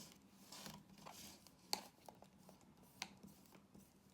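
Faint rustling with a few sharp light clicks, about two seconds and three seconds in, of small plastic toy pieces and packaging being handled.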